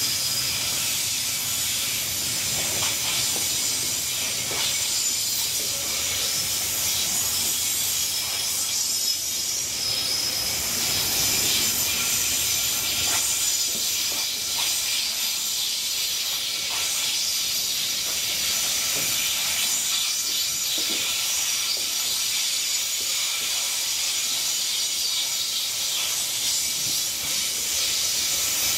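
Freight train's open gondola wagons rolling past, steel wheels on rail giving a steady high hiss with faint high-pitched squeal and occasional faint clicks.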